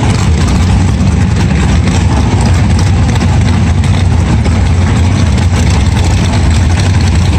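Drag-racing car engines running loudly and steadily at the starting line, with a deep, even rumble.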